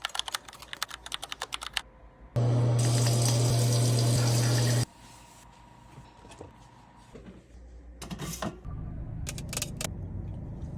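A quick run of clicks, about eight a second, then a loud, steady motor hum that starts suddenly a little over two seconds in and cuts off about two and a half seconds later. Softer scattered clicks and handling noises follow near the end.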